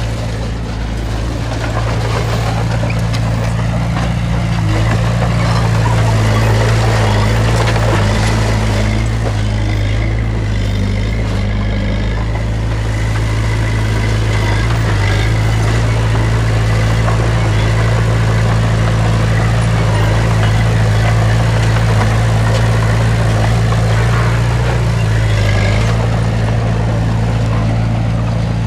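Heavy earthmoving machine's diesel engine running steadily under load, its note shifting slightly about five seconds in and again near the end.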